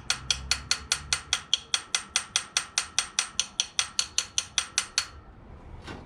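Rapid, very regular mechanical clicking, about five clicks a second, like a ratchet or pawl, that runs for about five seconds and then stops.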